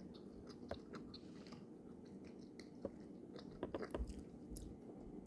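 Faint chewing of a soft gummy candy with marshmallow: irregular, quiet mouth clicks, with a small cluster of them a little past halfway.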